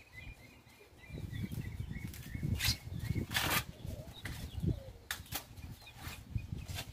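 Ears of corn being husked by hand: dry husk leaves tearing and rustling in several short rips, with a bird chirping faintly in the first few seconds.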